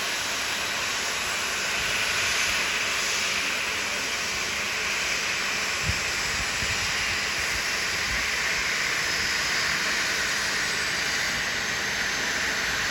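Jet airliner engines running: a steady rushing hiss.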